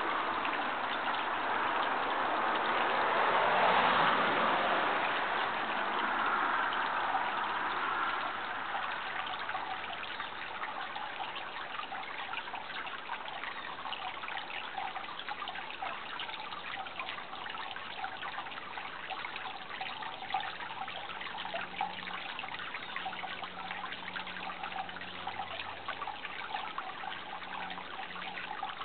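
Water trickling steadily, a fine crackling of many small splashes. A louder rushing noise swells in the first few seconds and fades away by about eight seconds in.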